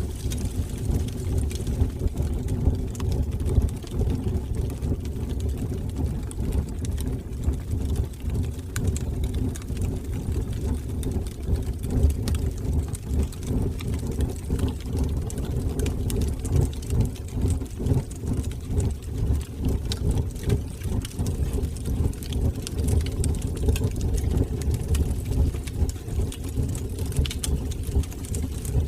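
Wood fire burning in a fireplace: a steady low roar of flames with frequent small crackles and pops scattered through it.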